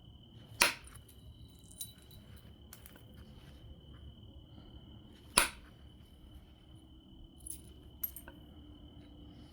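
Obsidian being knapped: two sharp clicks about five seconds apart as flakes come off the stone, with a few fainter ticks between them. A steady high thin tone runs underneath.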